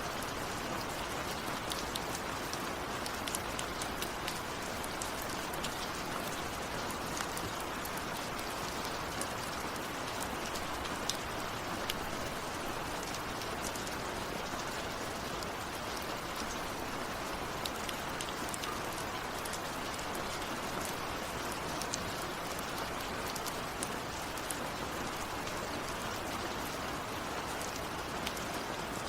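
Steady rain falling, a dense even hiss with many scattered sharp drip ticks.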